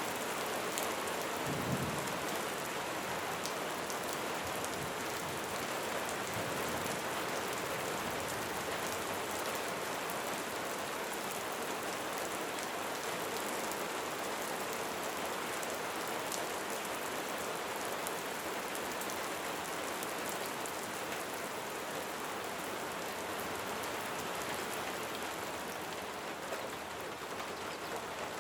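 Light rain falling steadily, with scattered individual drops ticking on a surface. A brief low thump comes about two seconds in.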